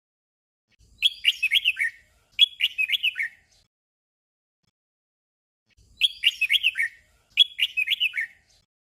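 Red-whiskered bulbul singing its short 'double' song: two quick warbled phrases back to back. The song comes twice, about five seconds apart.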